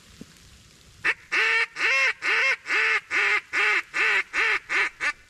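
A hand-blown waterfowl call sounding a loud run of about eleven evenly spaced, quacking notes, starting about a second in, to call in birds circling the decoys.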